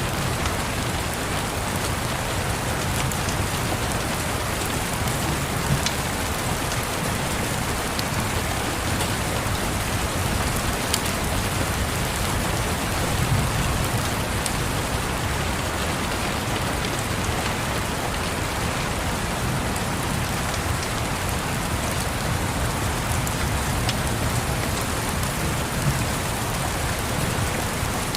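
Steady rain pattering on a surface, with a low rumble underneath and scattered sharp clicks.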